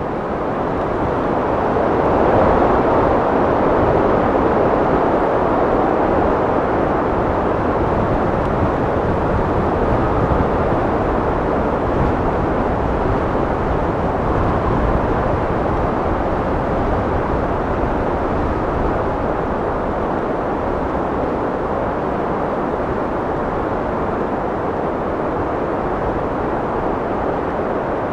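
Steady wind blowing, a dense rushing noise with no gusting breaks, swelling over the first couple of seconds and then easing off slowly.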